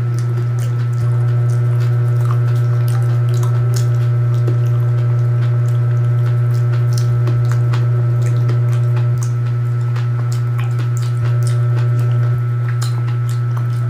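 Wet chewing and mouth clicks of a person eating rice and raw fish by hand, over a loud, steady low hum.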